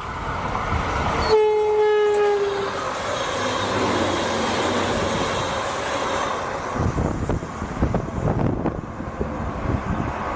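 Tren Maya passenger train passing close by at speed. It sounds one horn blast about a second in, lasting about a second and a half and dropping slightly in pitch, over the rush of the train going by. Uneven low rumbling follows in the second half as it moves away.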